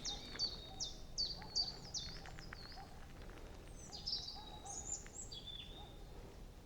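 Songbird singing in a forest: a run of about seven quick, high, falling notes, a little over two a second, then a few more high call notes about four seconds in, over quiet woodland background.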